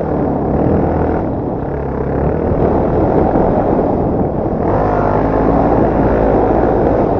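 Dirt bike engine running under load, its revs rising and falling as it is ridden.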